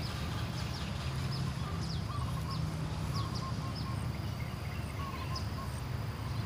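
Small birds chirping, short high falling notes repeated about twice a second with some lower notes in between, over a steady low hum.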